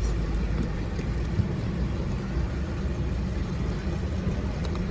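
Steady low rumble of a running engine, with a few faint light clicks.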